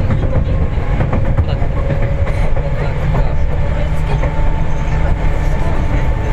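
Seibu 4000 series resistance-control electric train running, heard from inside the passenger car: a steady low rumble of wheels on rail with clicks over the track and steady tones from the running gear.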